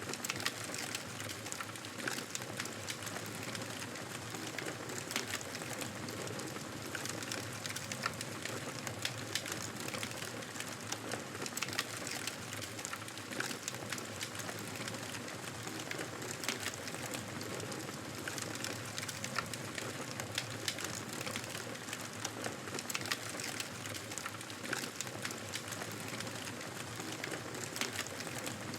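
Wood fire burning in a fireplace: a steady hiss of flames with frequent sharp crackles and pops.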